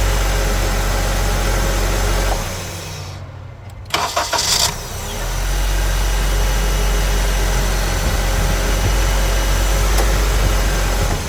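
2004 Honda CR-V four-cylinder engine running, switched off about two seconds in, then restarted a second and a half later: a brief crank from the newly fitted remanufactured starter, the engine catching at once and idling steadily. This is a test start to check the starter for grinding, and no grinding is reported.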